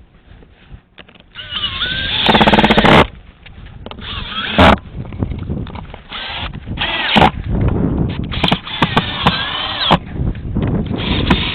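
Handheld power drill running in several short bursts that start and stop, the loudest one with a buzzing whirr about two seconds in, while a door-flap curtain is being fitted.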